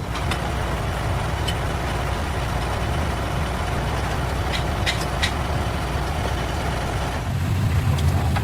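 A large diesel engine running steadily at idle, with a few short metallic clicks about halfway through. The engine gets louder near the end.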